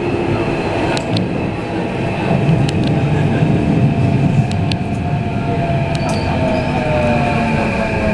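Running sound inside a Keikyu 1500-series car: the Mitsubishi IGBT-VVVF inverter and traction motors whine, and the whine falls steadily in pitch in the second half as the train slows for the station. Underneath are wheel-on-rail rumble and a few sharp clicks from the rail joints.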